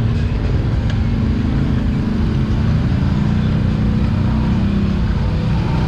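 Off-road vehicle's engine running steadily close by, its pitch wavering a little with the throttle as it crawls over rough ground.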